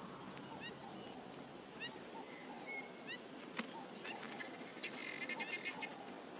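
Faint wild bird calls: a short rising call repeated three times about a second apart, scattered chirps, and a quick run of chattering ticks near the end.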